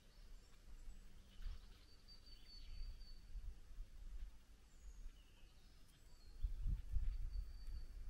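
Quiet outdoor ambience: a few short, faint high bird chirps over a low rumble, with louder low thumps about three-quarters of the way through.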